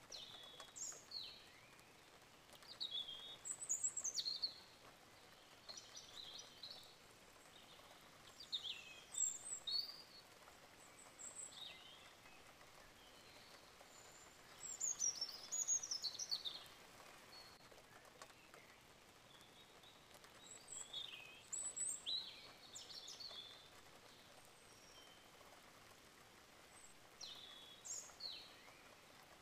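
Birds chirping in short bouts every few seconds, quick high-pitched calls that often fall in pitch, over a faint steady hiss.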